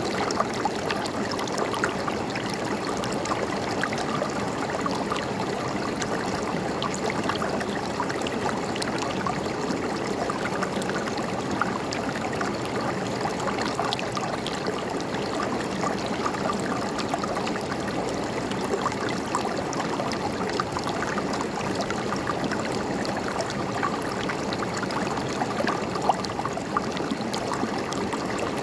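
A river or stream running steadily, with a continuous rush of water and many small splashes and gurgles scattered through it.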